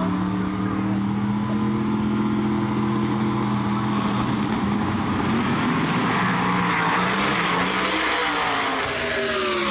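Two drag-race cars, a nitrous Ford Probe and a big-block Ford twin-turbo car, running steadily on the line. About six seconds in, a loud engine noise builds as they launch, and near the end the pitch falls away as they run off down the track.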